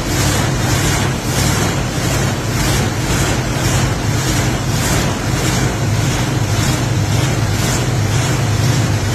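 1964 Cadillac's carbureted V8 running at idle after its Carter carburettor bowl was primed by hand, a steady low hum with an even pulse a few times a second.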